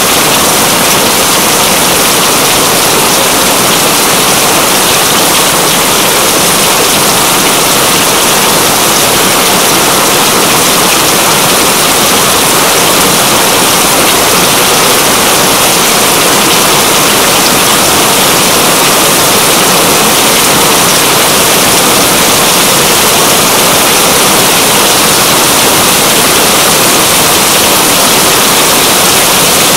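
Heavy rain falling steadily: a loud, dense, even hiss.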